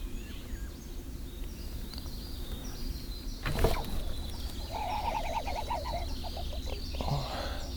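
Birds singing around a pond. About three and a half seconds in there is a sudden sharp swish as the fixed-line herabuna rod is struck. A second or so later comes a buzzing whistle of the taut fishing line as a hooked carp runs.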